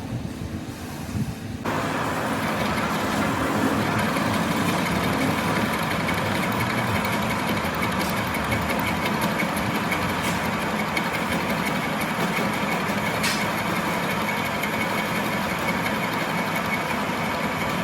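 A machine starts running about two seconds in and keeps running steadily, with a constant whine over a dense mechanical noise and a few faint clicks.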